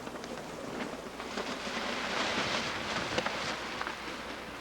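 Sail cloth rustling and a few sharp knocks as a sailing yacht's spinnaker is taken down, over wind and sea noise. The rustling swells in the middle and eases off near the end.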